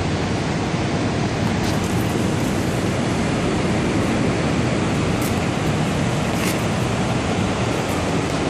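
Loud steady rushing hiss with a low hum underneath and a few faint ticks.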